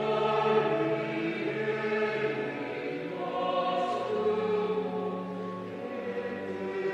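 Church choir singing a Korean hymn in several parts, with organ accompaniment holding sustained chords beneath the voices.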